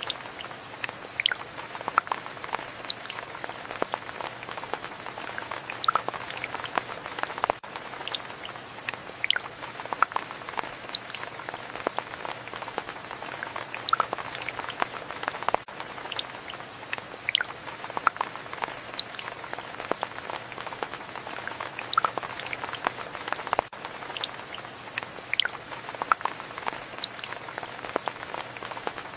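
Rain falling steadily, with many close, separate drops ticking and spattering on a surface over a soft, even hiss. The same few seconds of recording seem to repeat about every eight seconds, with a brief gap at each join.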